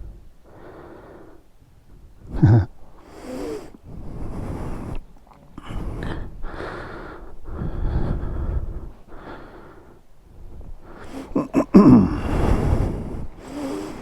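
A person breathing heavily, close to the microphone, with puffs about a second apart. Twice, about two seconds in and again near the end, a short falling voiced sound like a grunt or gasp cuts through the breathing.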